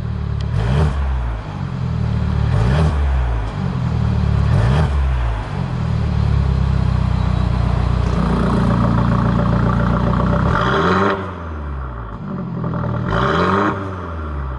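Mercedes-Benz GLC300's turbocharged four-cylinder engine through an aftermarket valved exhaust, revving up and falling back three times in quick succession, then held at high revs for several seconds before dropping, with another rev near the end.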